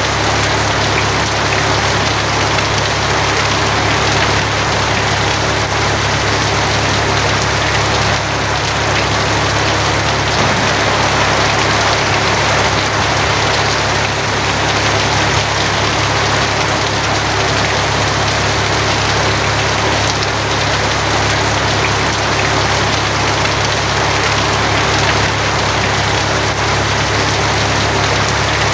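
Steady heavy rain drumming on a tin roof, with a constant low rumble underneath.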